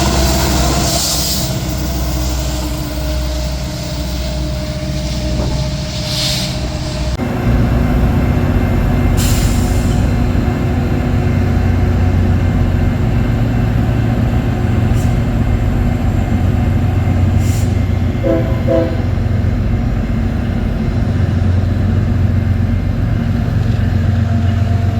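A train rolling past close by: a steady heavy rumble of rail cars on the track that grows louder about seven seconds in, with a few sharp high clicks from the wheels and rails.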